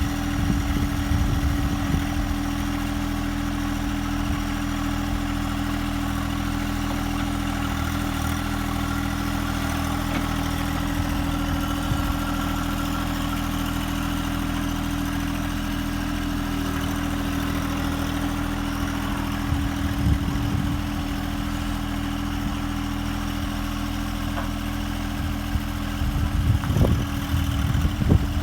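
The engine of a John Deere machine running steadily. There are bursts of knocking and rattling about a second in, again near the middle, and more over the last few seconds.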